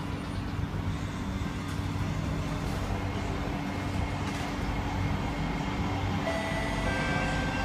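Inside a C151A metro car (Kawasaki–CSR Sifang) on an underground line: a steady rumble of wheels on rail and traction motors, with a few thin steady motor tones. It grows slightly louder as the train pulls away and picks up speed.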